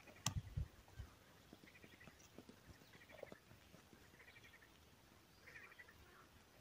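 Faint short trilled call of a small bird, repeated four times about every second and a half, with a sharp click near the start.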